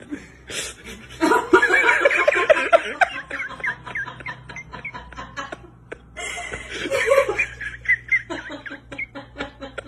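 A person laughing in quick, breathy bursts: a long fit starting about a second in, then a second, shorter bout later.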